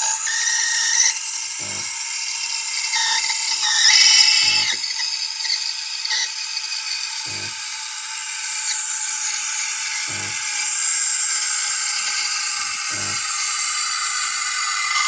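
Espresso machine steam wand hissing steadily into a jug of milk as it steams and heats it, briefly louder about four seconds in. A faint low knock comes about every three seconds.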